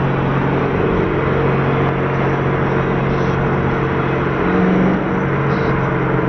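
Car engine running steadily, its note rising briefly about four and a half seconds in.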